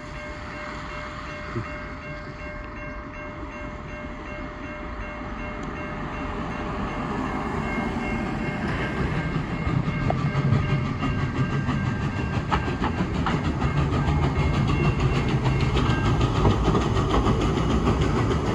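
Steam locomotive Mount Lyell No. 3 and its carriages approaching on the rails, growing louder over several seconds. Once close, it rumbles steadily while the wheels click rapidly over the track.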